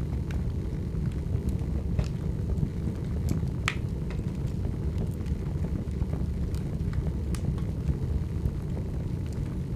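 Open fire burning: a steady low rumble with scattered sharp crackles and pops, the loudest pop a little over a third of the way in.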